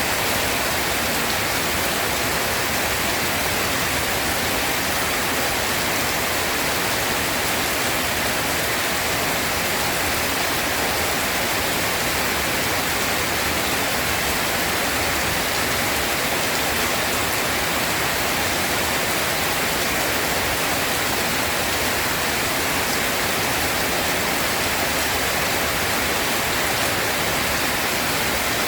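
Steady rain falling, an even hiss that neither swells nor breaks, with no thunder.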